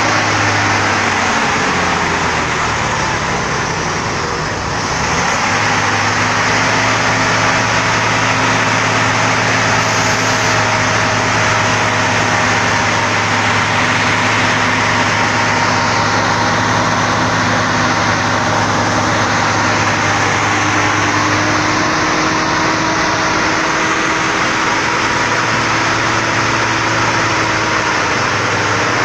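Old truck's engine running steadily under power, its note shifting about four seconds in and again about three-quarters of the way through.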